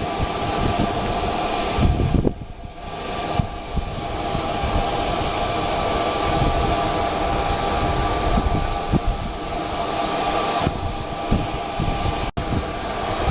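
Loud, steady rushing jet noise with faint steady whining tones, from a jet aircraft running on the ramp, with wind rumbling against the microphone. The noise dips briefly about two seconds in and cuts out for an instant near the end.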